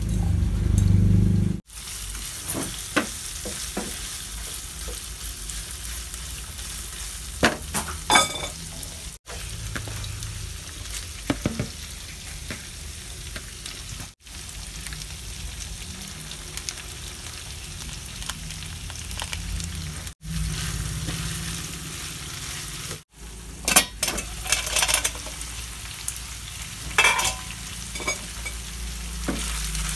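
Pechay (bok choy) and ground beef sizzling in a hot frying pan, with scattered scrapes and knocks from stirring. A short loud low rumble comes at the very start, before the sizzling.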